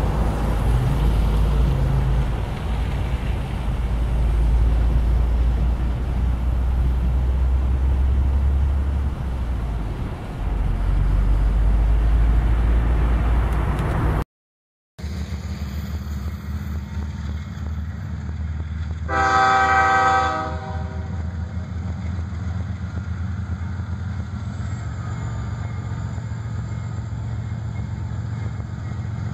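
Freight train hopper cars rolling past with a heavy low rumble. After a short cut to silence about halfway, an approaching freight locomotive sounds its horn once for about a second and a half over a steady low drone.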